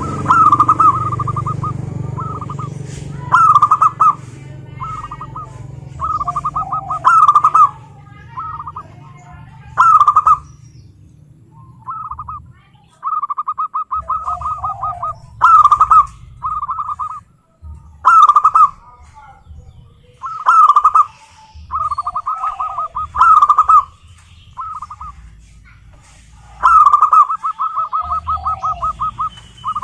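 Zebra doves (perkutut) singing. Rapid staccato trills of cooing notes at about one pitch are broken by louder coos, and the phrases repeat every two to three seconds.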